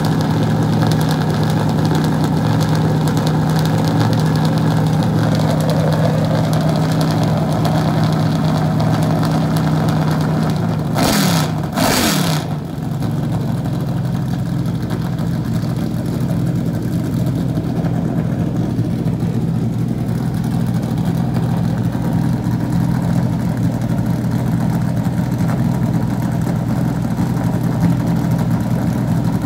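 NASCAR stock car's V8 engine idling while warming up, a steady, rumbling low note. Just past the middle it gives two short sharp bursts, a second apart, and its pitch drops back before the idle settles again.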